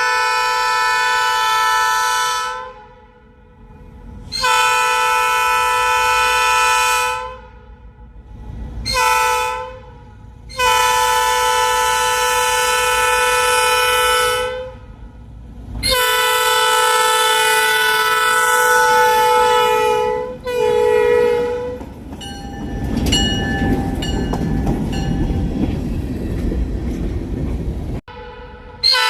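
Locomotive air horn blowing the grade-crossing signal: two long blasts, a short one and a long one, then another long blast and a short one. About 22 seconds in the horn falls silent and the rumble and clatter of the train's wheels on the rails take over, and the horn starts again at the very end.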